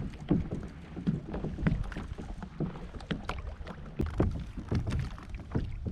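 Scattered small clicks and taps of fishing tackle being handled, a soft lure being worked off a hook, over a low rumble of wind on the microphone.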